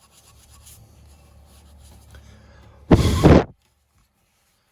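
Faint rubbing of a scouring pad on a chrome motorcycle rim, taking rust off. About three seconds in, one short, loud puff of breath blows the rust and crumbled pad off the rim.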